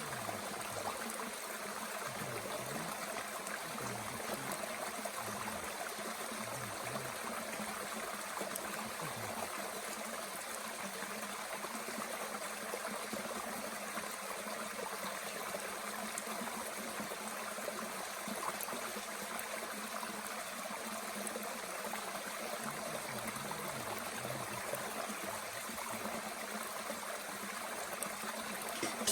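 Mountain stream flowing and trickling steadily, with a few faint crackles from a small wood fire burning in a Bushbox stove.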